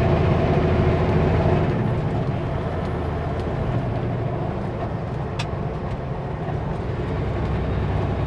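Kenworth W900L semi truck running down the highway, a steady diesel engine hum with road noise, easing off a little in the middle and building again near the end. A short click about five seconds in.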